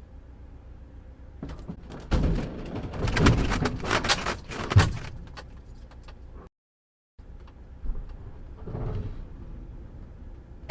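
A rapid run of loud clattering knocks and bangs lasting about three seconds, like hard objects striking and rattling, cut off abruptly partway through.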